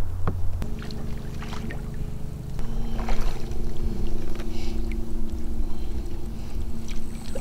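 Boat motor running steadily to hold the boat against strong river current, its pitch shifting a couple of times as the thrust is adjusted.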